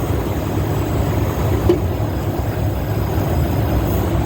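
Steady low rumble of an idling diesel semi-truck, with the hiss of a small air leak in the truck's air system, which the driver thinks is leaking back through a valve.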